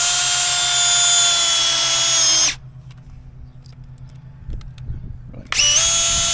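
Power drill driving exterior-rated screws through the flashing and siding: a steady whine that runs for about two and a half seconds, dipping slightly in pitch as the screw seats, then stops, and starts again about five and a half seconds in for the next screw.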